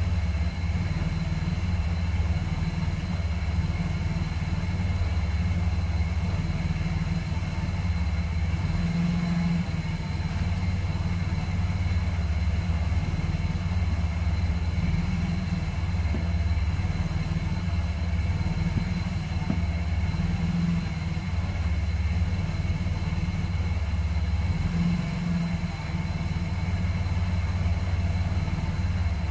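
Chevrolet Camaro engine idling through its dual exhaust, a steady low rumble that swells and eases every few seconds. It is running again after the car has sat for three months.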